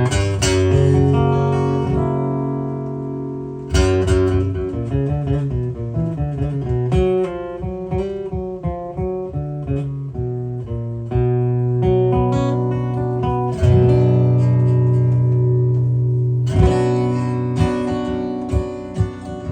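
Acoustic guitar playing an instrumental introduction: strummed and picked chords with low notes that ring on.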